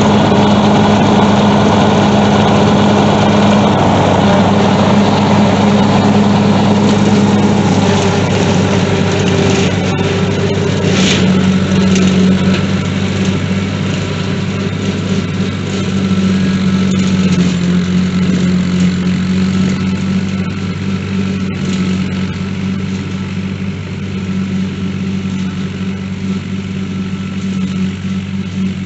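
Tractor engine running steadily while driving a Frontier rotary cutter (bush hog) fitted with new blades. The engine note shifts a little in pitch and eases slightly in loudness about a third of the way in.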